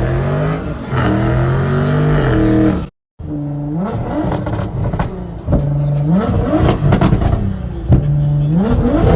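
Car engine revving hard again and again, its pitch climbing and dropping with each blip of the throttle. The sound cuts out for a moment about three seconds in.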